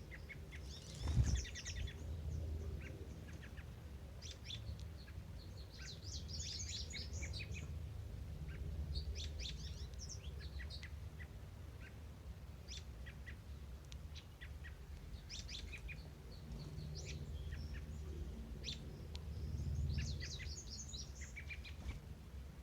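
Songbirds singing, with short high phrases of quick notes repeated every few seconds over a steady low rumble. A single thump sounds about a second in.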